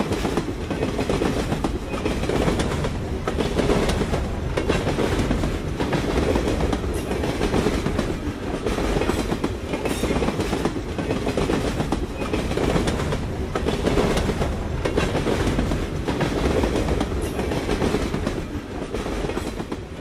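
A railway train rolling along the track with a steady rumble, its wheels knocking repeatedly over the rail joints.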